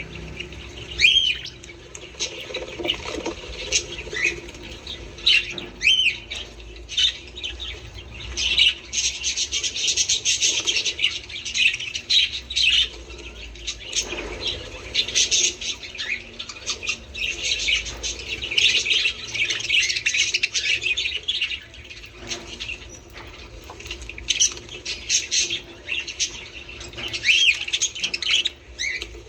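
A flock of budgerigars chattering, a busy run of quick chirps, warbles and squawks with no pause.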